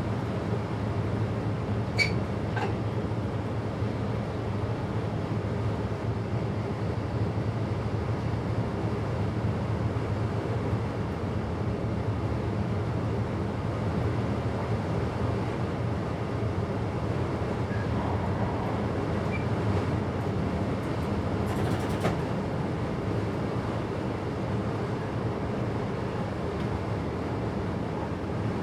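Passenger train running along the line, heard from inside the driver's cab: a steady rumble and hum. There is a sharp click about two seconds in and a short burst of noise near the twenty-two-second mark.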